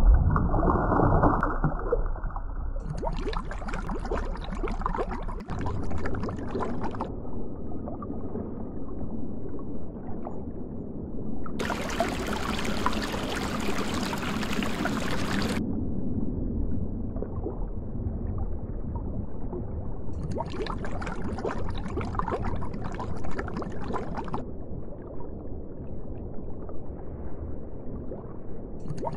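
Steady rushing and gurgling water noise, changing in character abruptly every few seconds.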